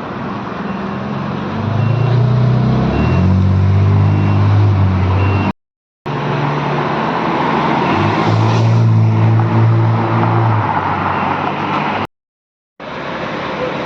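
Street traffic: motor vehicle engines running, their low hum shifting in pitch, with faint short high beeps in the first few seconds. The sound cuts out twice.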